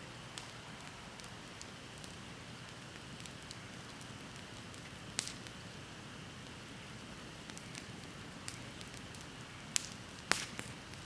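Bonfire burning low with sparse, sharp crackling pops: one about halfway through and two loud ones near the end, over a steady background hiss.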